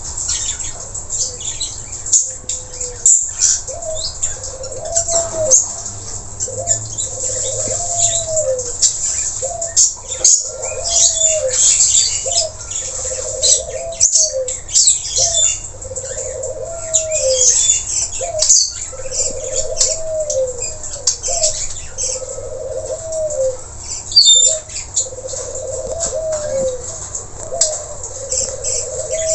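Birdsong recording of the nuri tanau (blue-rumped parrot): a busy run of shrill, quick chirps, under which a low arching call repeats about every second and a half.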